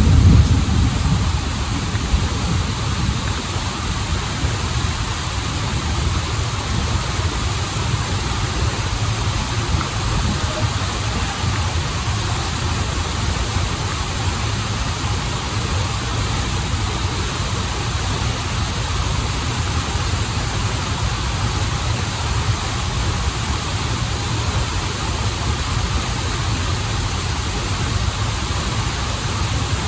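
Waterfall and stream water rushing steadily, with a deep low rumble under a hiss of spray, a little louder in the first second.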